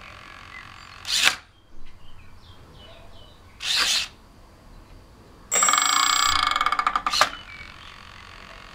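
Small motor-driven mechanism: two short bursts of noise, then about two seconds of fast, buzzing whirring that ends in a sharp burst.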